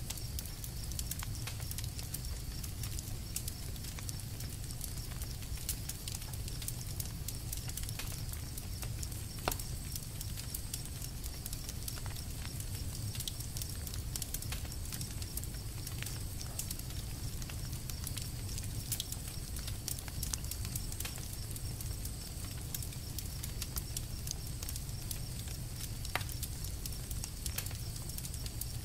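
Campfire crackling: a steady stream of small snaps and pops, with a couple of louder pops about a third of the way in and near the end, over a low steady rumble.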